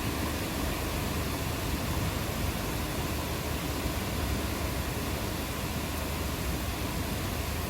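Steady rainfall, an even unbroken hiss with a constant low rumble beneath it.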